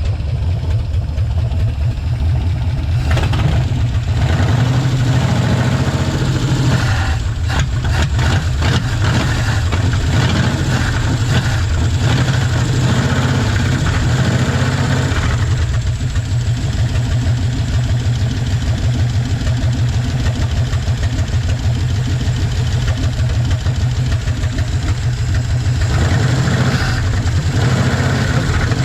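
Old Chevy car engine running steadily on its own, just brought back to life after sitting, started with no adjustments: the ignition is working.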